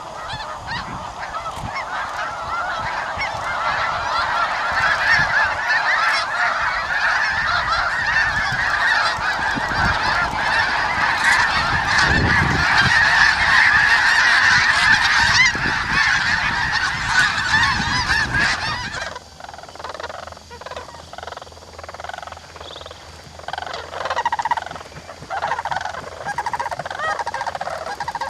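A large flock of geese calling all together in a dense, honking clamour that grows louder, with a low rumble partway through. About two-thirds of the way in it changes abruptly to fewer, separate honks.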